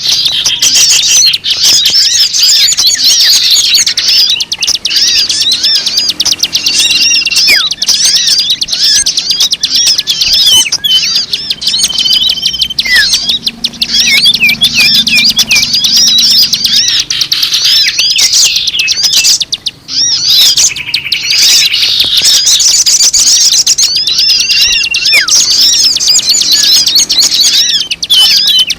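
A dense chorus of small songbirds chirping and trilling rapidly at high pitch, with short steady whistled notes now and then: a bird-lure recording meant to draw in many kinds of birds.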